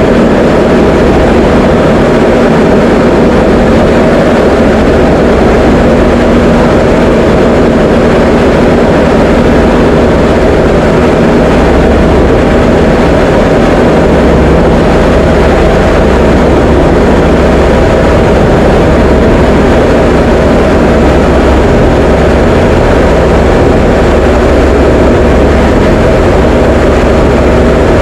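Diamond DA20 light aircraft's piston engine and propeller droning steadily in flight.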